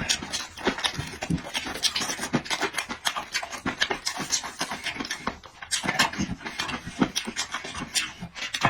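Close-miked eating sounds: wet chewing and lip-smacking in quick irregular smacks, with heavy breathing between mouthfuls.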